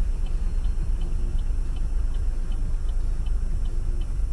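Low road and engine rumble inside a moving car, with a turn-signal indicator ticking evenly about twice a second.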